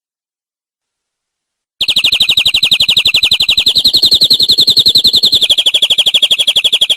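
Domestic canary singing one long, fast trill of rapidly repeated high notes. It starts about two seconds in after silence, steps slightly up in pitch midway and back down near the end.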